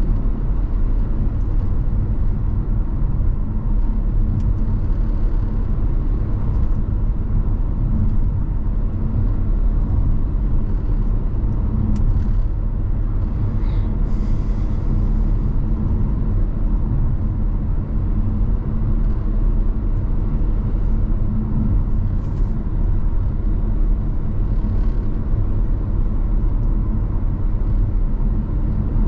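Car driving along a highway: a steady low rumble of road and engine noise, with a faint click and a brief higher hiss about halfway through.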